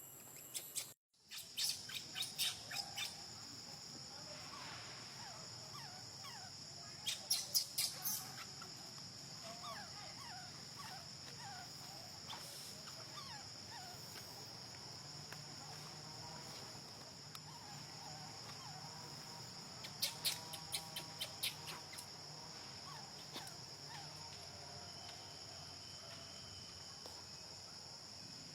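A steady high-pitched insect drone runs throughout, with three bursts of rapid, sharp chirping calls: near the start, about a quarter of the way in, and past two-thirds. Faint short squeaky calls come and go between them.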